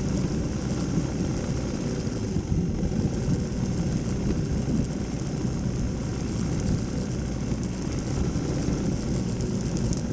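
Dirt bike engine running steadily, without clear revs or gear changes.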